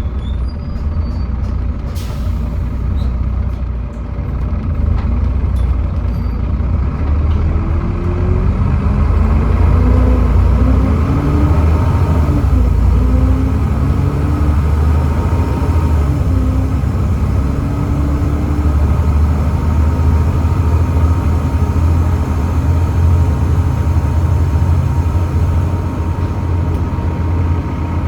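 Volvo B7TL double-decker bus with a Volvo D7C engine and ZF Ecomat automatic gearbox pulling away and accelerating: a steady engine rumble under a whine that climbs in steps as the gearbox changes up. A short sharp click comes about two seconds in.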